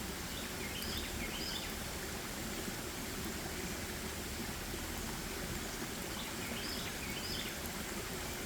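Steady rush of flowing water in a forest stream. A small bird sings the same short, high phrase twice: about half a second in, and again about six seconds later.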